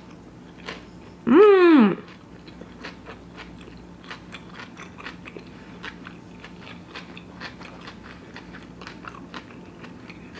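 Close-miked chewing of a mouthful of vegan sushi bake and cucumber: a stream of small wet clicks and smacks. A loud hummed 'mmm' of enjoyment, rising then falling in pitch, comes about a second and a half in.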